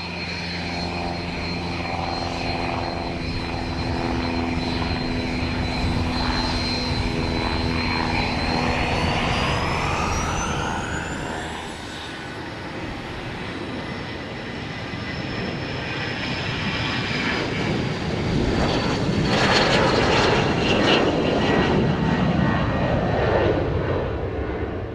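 Airplane engine running, with a steady high whine that climbs in pitch around ten seconds in, then a louder, rushing engine noise that builds over the last several seconds.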